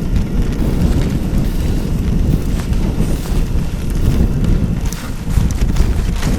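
Blizzard wind buffeting the microphone, a heavy low rumble that rises and falls in gusts. Toward the end, a run of sharp ticks and crunches joins it.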